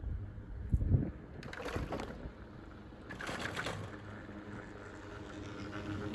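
Wind buffeting the microphone in low gusts, strongest about a second in, with two bursts of rustling handling noise from the camera held in one hand on an open chairlift.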